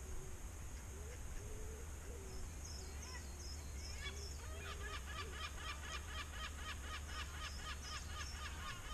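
A goose honking in a rapid run of calls, about five or six a second, starting about four seconds in and carrying on, with a few fainter calls before it.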